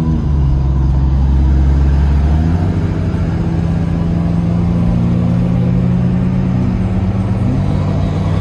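Turbocharged car engine pulling at full throttle, heard from inside the cabin. The engine note steps in pitch about two and a half seconds in and again near the end, as it shifts gear.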